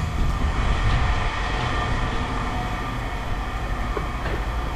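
Steady low rumble of heavy machinery running, with a few faint knocks near the end.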